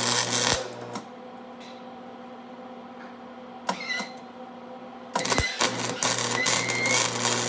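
Electric arc welding: the arc crackles and sputters with a steady low hum, in a short burst at the start and a longer run of about three seconds from around five seconds in. The welding is throwing a lot of spatter.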